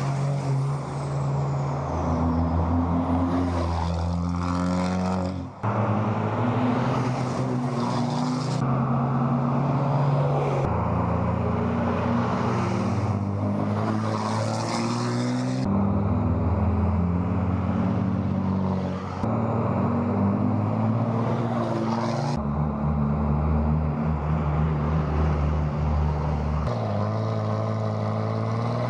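Diesel pickup truck engines running and revving hard, in short clips that change abruptly every few seconds.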